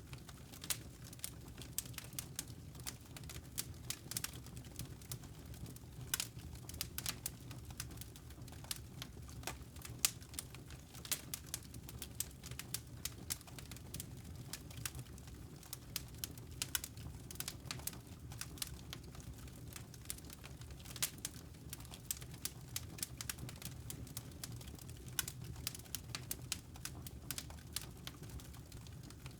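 Wood fire crackling in a fireplace: many irregular sharp pops and snaps over a low steady rumble.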